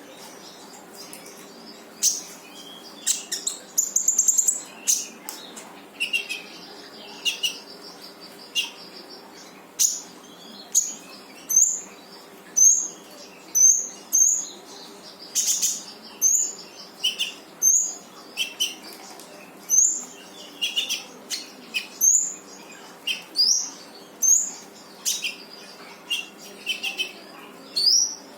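A konin songbird singing hard in full 'shot' calls: short, sharp, high whistled notes about once a second, many sweeping upward, with a quick rapid run of notes about four seconds in.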